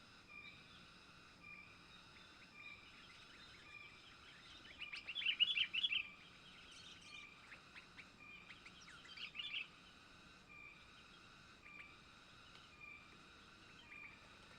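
Sooty-headed bulbuls (kutilang) calling: a burst of quick chirping notes about five seconds in and a shorter one near the ten-second mark. Under them, a faint short note repeats about every half second.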